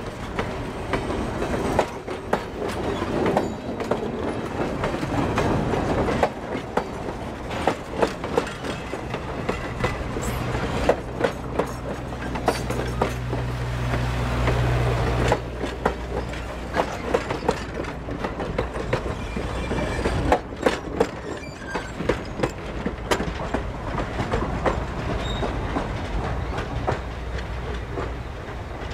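Passenger coaches of a train rolling slowly past, their wheels clicking and clacking over rail joints in a steady run of sharp knocks over a low rumble. A low steady hum joins for several seconds midway and cuts off suddenly.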